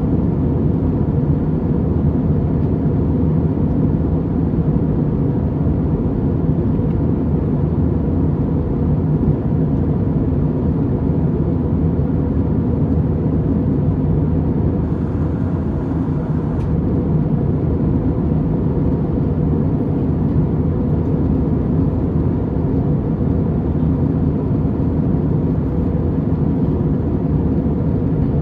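Steady, loud low drone of a passenger airliner in flight, heard from inside the cabin: engine and rushing-air noise.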